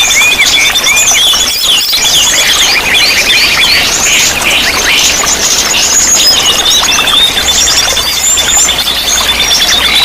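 Several songbirds singing at once: a fast, evenly repeated high trill that breaks off briefly early on and then resumes, under many quick chirps and whistles.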